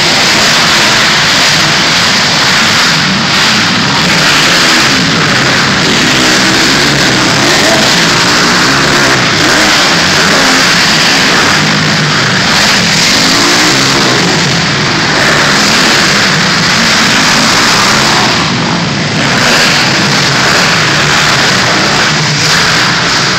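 Motocross dirt bike engines running loud and continuously, their pitch rising and falling as they are throttled up and down.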